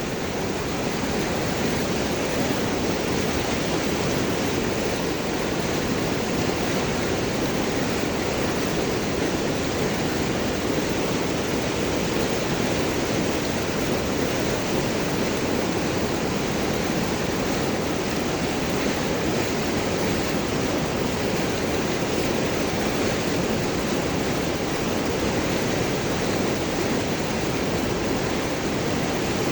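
River water flowing and gurgling over and around large rocks, a steady rushing noise with no change in level.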